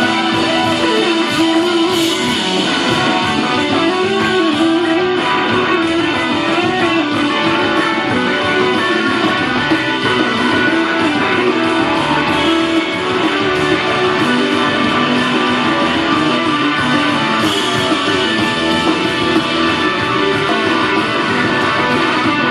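Live band music, loud and continuous, with electric guitar to the fore over bass and drums.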